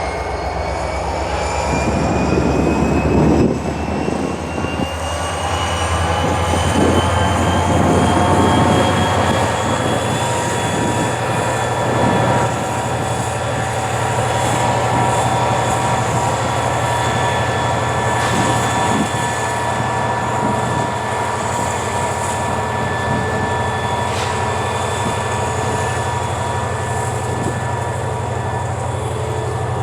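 DJI Mavic Mini drone's propellers whining, several high tones rising in pitch over the first ten seconds and then holding steady.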